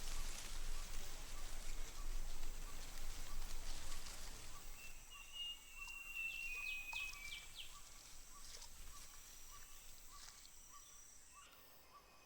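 Tropical rainforest ambience: a rain-like hiss fades over the first few seconds, leaving birds calling with quick sweeping notes and short whistles over a steady high-pitched insect drone. A faint ticking call about twice a second runs underneath, and the insect drone stops near the end.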